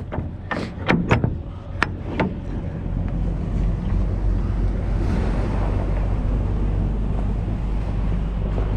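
A few sharp knocks in the first couple of seconds, then a steady low rumble of wind buffeting the microphone.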